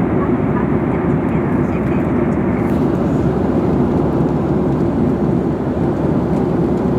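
Steady airliner cabin noise in flight: jet engine and airflow noise heard from inside the passenger cabin, a low, even rush. About three seconds in, the higher hiss drops a little.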